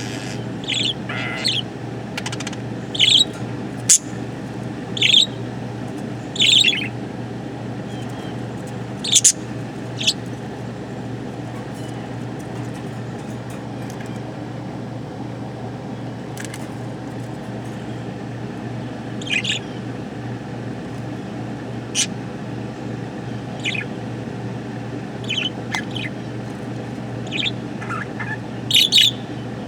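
Pet budgerigar chirping in short, sharp calls that come in scattered bunches, busier near the start and the end with a quieter stretch in the middle, over a steady low background hum.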